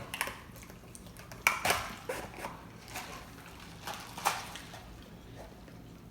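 Eating and handling noises at a table: a handful of short, sharp crunches and clicks, the loudest about one and a half seconds in, as someone works through Taco Bell tacos.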